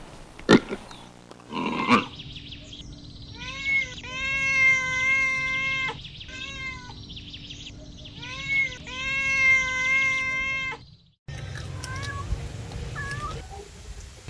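A cat meowing: two long, drawn-out meows of about two seconds each, steady in pitch, after a couple of short sharp sounds. After an abrupt cut, a few faint short high chirps follow.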